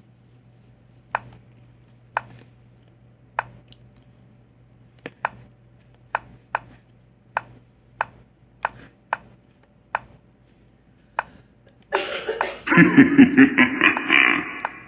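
Sharp single clicks from a computer chess game, scattered every half second to a second, then about twelve seconds in a loud soundboard sound effect with a rapid pulsing, voice-like sound lasting about three seconds.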